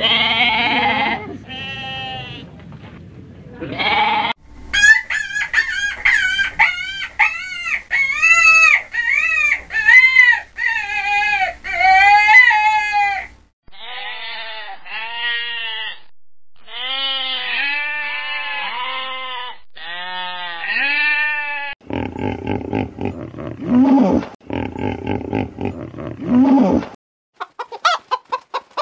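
A run of farm-animal calls: goats and sheep bleating in turn, many separate drawn-out calls, then hens clucking in quick short notes near the end.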